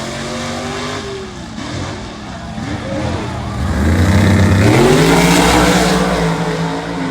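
Street-car drag racing engines revving, the pitch climbing steeply about four and a half seconds in and then holding high, loudest around five seconds.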